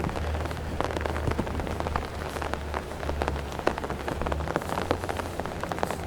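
Heavy rain falling, with many separate drops tapping irregularly close to the microphone over a steady low rumble.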